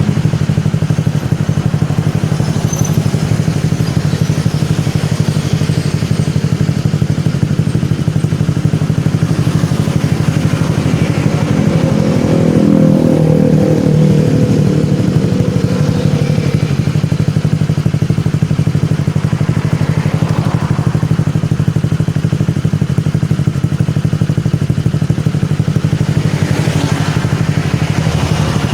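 Honda Vario scooter's single-cylinder four-stroke engine idling through an initialD sandblasted aftermarket racing exhaust: a steady low throb, with a brief light rev about twelve seconds in.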